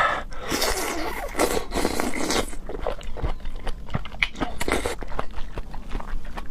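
Close-miked eating of raw seafood: a rasping, scraping noise lasting about two seconds near the start, then chewing with wet mouth clicks and smacks.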